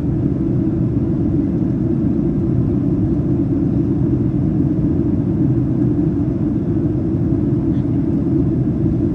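Steady, loud cabin noise inside a Boeing 737-800 airliner during descent: the low rush of airflow over the fuselage mixed with the drone of its CFM56 engines, even throughout with no distinct events.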